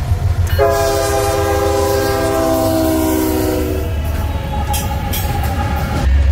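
Diesel locomotive sounding its multi-note air horn for about three seconds, the chord sagging slightly in pitch, over the low rumble of the train. A fainter horn tone follows.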